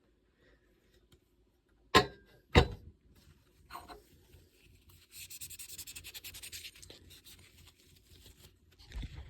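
Two sharp knocks about half a second apart, a softer knock a second later, then a couple of seconds of dry rubbing and scratching: small pocket cornet valve parts being handled during reassembly.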